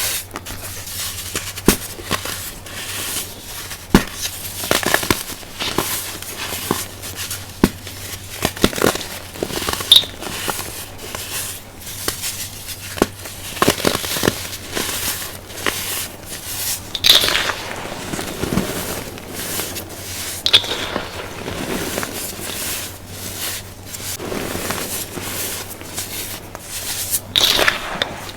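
Crunchy, powdery baking soda being crushed: dense, irregular crackling and crunching with sharp snaps scattered throughout.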